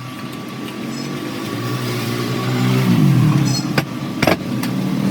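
A machine motor running with a steady hum, its pitch sliding about three seconds in, followed by two sharp clicks about a second later.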